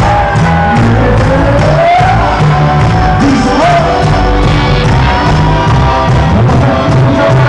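Live cuarteto band playing loudly with a steady, driving beat, with singing and shouts from the crowd over it.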